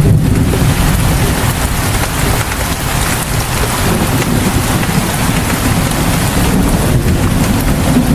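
Heavy rain falling steadily, an even hiss of drops with a low rumble underneath.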